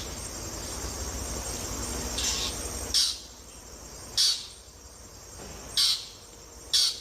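Crickets trilling steadily, with five short, high, raspy chirps about a second apart. A low rumble stops about three seconds in.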